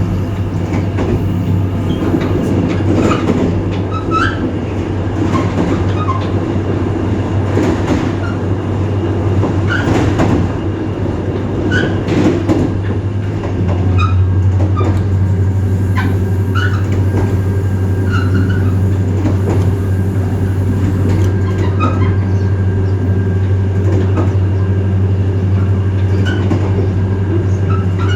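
EMD GT26CW-2 diesel locomotive's 16-cylinder two-stroke engine running under load as it hauls the train, a steady low drone that steps up louder about halfway through as the throttle is notched up. Short squeaks and clicks from the running gear sound over it.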